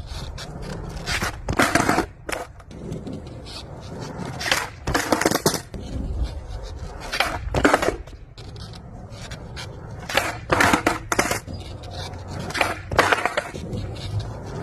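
Skateboard riding a pump track: a steady low rumble of the wheels rolling, broken by about a dozen short, sharp scrapes and clacks from the board.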